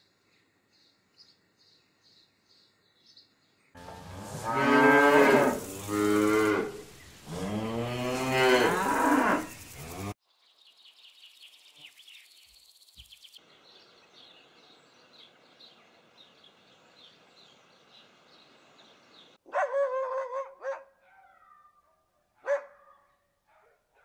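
A cow mooing: three long, low calls, the loudest sound here. Before them there is faint rapid insect chirping. After them come high bird chirps over a hiss, and near the end a dog barking in a short run and then once more.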